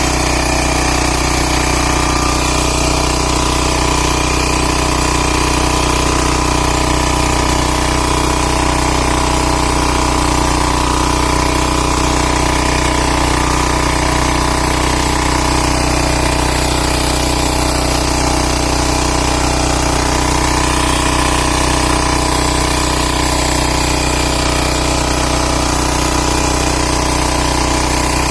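Kama engine on a power tiller running steadily at an even speed.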